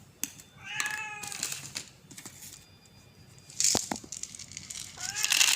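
A street cat meowing for food: one meow about a second in and a shorter one near the end. A brief rustle in the middle and louder rustling near the end.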